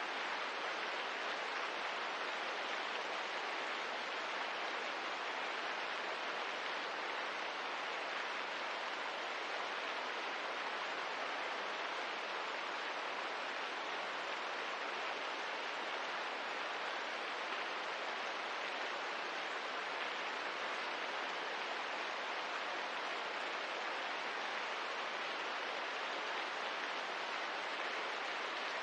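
Steady, gentle rain: an even hiss with no separate drops or crackles standing out.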